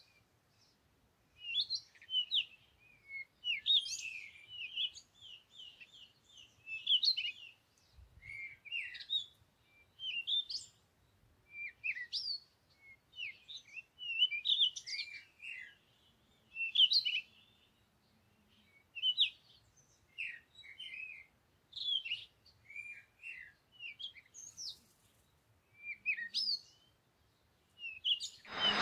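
Small birds chirping and twittering in repeated short bouts of quick, high notes, with a brief sharp click near the end.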